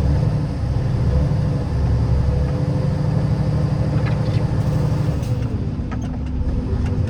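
Car driving: a steady low rumble of engine and tyres with a steady hum above it, easing slightly after about five seconds, and a few light clicks in the second half.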